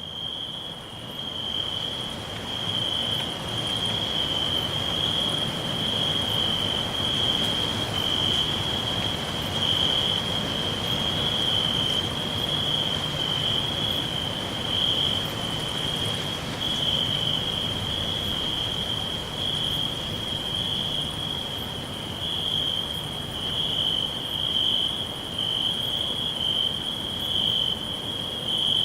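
Crickets chirring in a forest, a continuous high-pitched trill over a soft background hiss. The sound fades up over the first few seconds, then holds steady.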